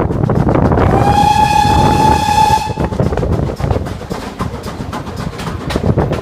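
Steam locomotive whistle sounding one blast of about two seconds, its pitch rising slightly as it opens, over the noise of the running train with a steady rhythmic beat. The train noise drops off somewhat after the whistle.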